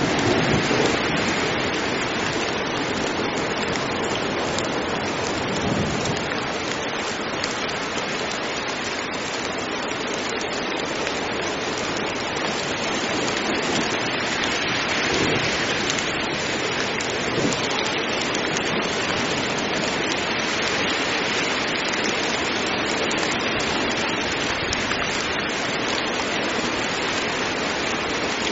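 Heavy rain falling steadily, a dense even hiss, with a low rumble of thunder near the start.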